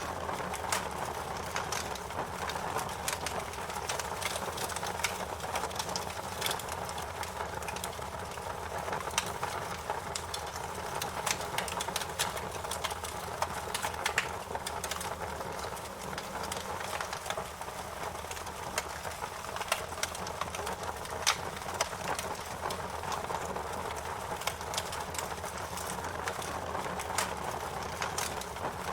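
Wood fire crackling in a fireplace: a steady hiss of burning with frequent sharp pops and snaps at irregular intervals.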